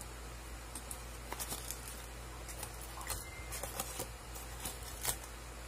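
Someone chewing food: scattered soft wet clicks and smacks, the loudest just after five seconds in, over a steady low hum.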